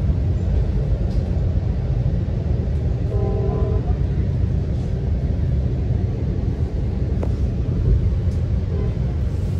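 Steady low rumble of a Metra commuter train's passenger car rolling along the track at speed, heard from inside the car. A brief pitched tone sounds for under a second about three seconds in.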